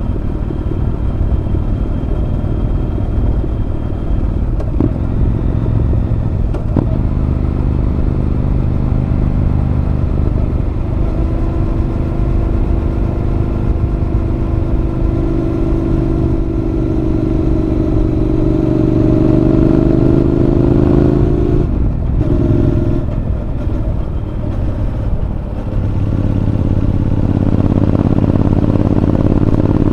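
Honda NC750X's parallel-twin engine running through a Moriwaki aftermarket muffler while riding. The exhaust note climbs steadily under acceleration, dips briefly past the middle, then settles into a steady pull again near the end.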